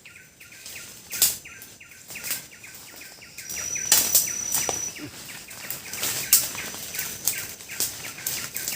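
Wild forest bird calling in a rapid, evenly repeating chirp, with one high, steady whistle held for about a second near the middle. Sharp cracks and rustles come and go over it.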